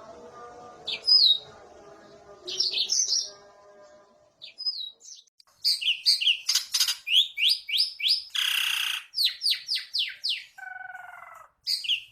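Yellow-fronted canary singing: a few faint warbled notes at first, then from about halfway a loud, fast run of shrill, sharply falling high notes, broken by one buzzy note and a short lower trill.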